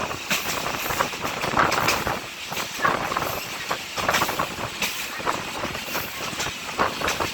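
Train running along the track: a continuous rumbling noise with many irregular clicks and rattles.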